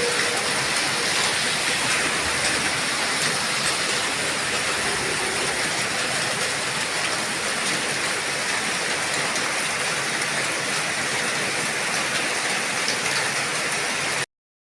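Heavy rain falling steadily, a dense, even hiss. It cuts off abruptly near the end.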